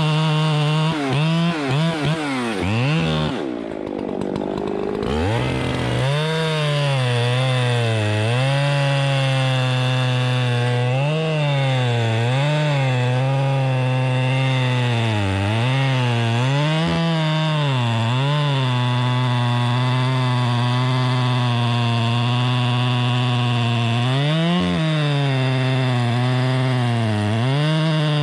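Chainsaw running at high revs while cutting timber, its pitch repeatedly dipping and recovering as it loads up in the cut, with a deep drop about four seconds in before it picks back up. The saw is worn and running poorly.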